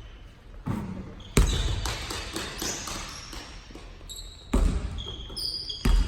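A basketball hitting a hardwood gym floor in four irregular thuds during play, with short high squeaks of sneakers on the court in between.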